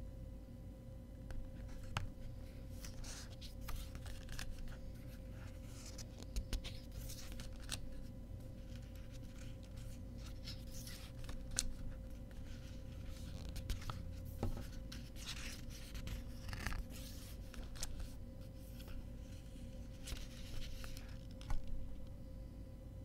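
Hands handling packaging and box-set items: bouts of paper and plastic rustling with small clicks and taps, over a faint steady hum.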